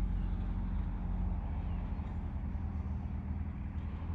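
Car engine running at low revs as a car moves off, a steady low rumble.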